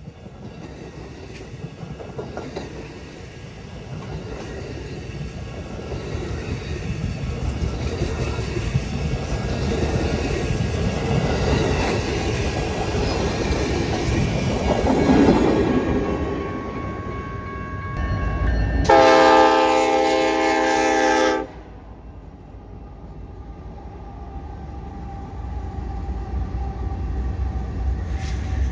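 A train rolling past, its rumble and wheel clatter building over the first half. About two-thirds of the way in, its horn sounds one chord-like blast of about two and a half seconds that stops abruptly, and the train's rumble carries on more quietly after it.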